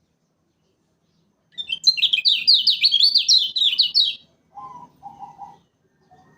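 Kecial kuning, a Lombok white-eye, singing a fast, loud burst of high, down-slurred chirps for about two and a half seconds. A few short, lower, quieter notes follow near the end.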